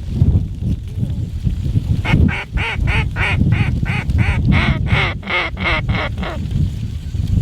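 Snow goose calling: a quick run of about a dozen high honks, roughly three a second, starting about two seconds in and lasting some four seconds, over a steady rumble of wind on the microphone.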